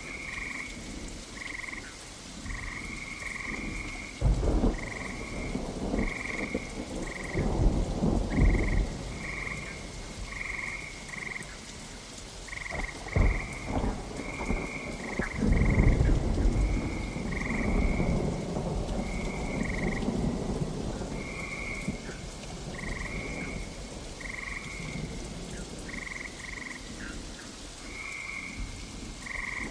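Steady rain falls while thunder rumbles several times, the longest roll about halfway through. Frogs keep up short, repeated croaking calls throughout.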